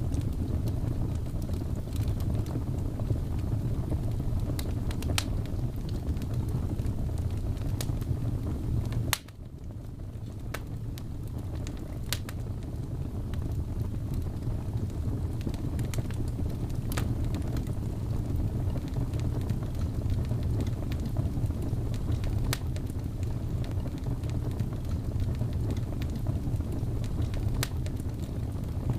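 Wood fire crackling in a fireplace: a steady low rumble of burning with scattered sharp pops and snaps. The sound drops abruptly about nine seconds in and builds back up over the next few seconds.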